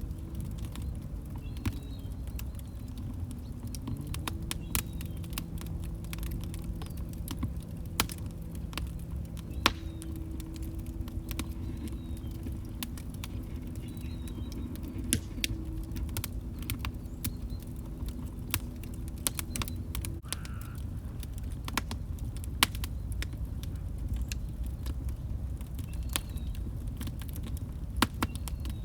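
Log fire burning in a fireplace: a steady low rumble with irregular sharp crackles and pops, a few of them louder. A faint low hum runs under it and stops about two-thirds of the way through.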